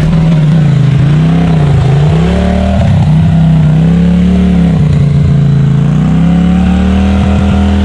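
Side-by-side UTV engine revving up and down several times under load, then holding a steady pitch near the end.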